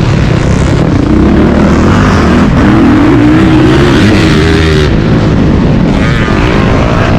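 Dirt bike engine being ridden hard, revving up and falling back again and again as the throttle is opened and closed.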